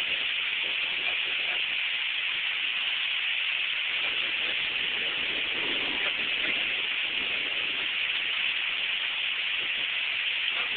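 Heavy rain pouring down in a severe thunderstorm, a steady hiss without letup.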